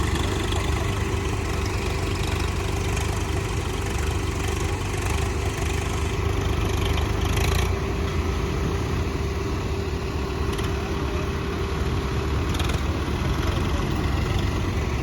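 Tractor diesel engine running steadily, with a steady hum that drops away near the end.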